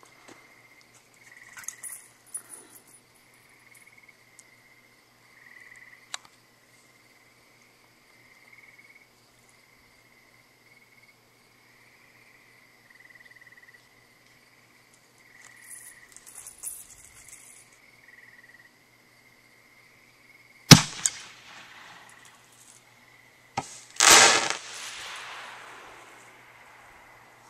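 A firework going off: one sharp, very loud bang, then about three seconds later a small crack followed by a loud, longer burst that fades over a couple of seconds. Insects chirp steadily underneath.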